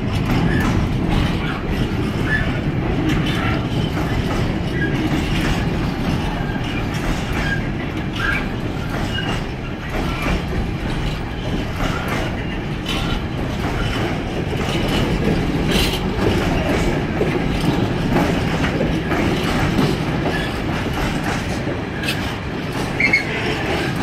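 Container flat wagons of a freight train rolling past: a steady rumble of steel wheels on the rails, with irregular clicks and knocks from the wheels over the rail joints and a few brief, faint squeals.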